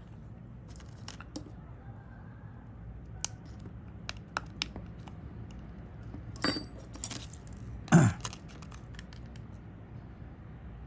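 Small hand tools clicking and tapping on the parts of a disassembled Sony Xperia 5 II smartphone, light metallic clatter of irregular sharp clicks, with a louder clatter about six and a half seconds in and the loudest knock near eight seconds.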